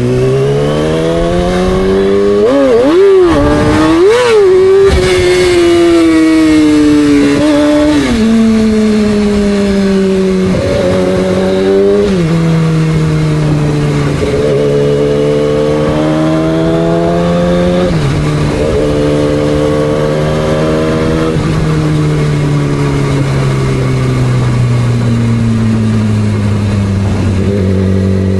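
2006 Yamaha R6's inline-four engine running under way, its pitch rising and falling with the throttle, with sudden steps in pitch at several gear changes and a long slow fall near the end as it slows.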